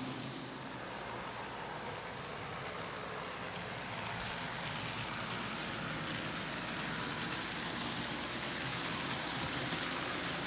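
N scale model train (Athearn F59PH locomotive with Bombardier coaches) running on the layout track: a steady whirring, hissing roll of the motor and wheels on the rails, with a few faint clicks, growing a little louder toward the end as it comes closer.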